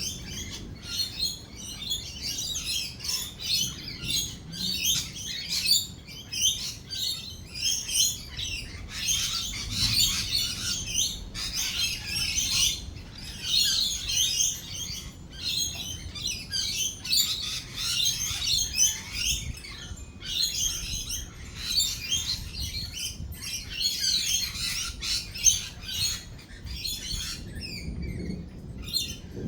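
A flock of lorikeets chattering and screeching continuously, many short overlapping calls, over a faint low rumble.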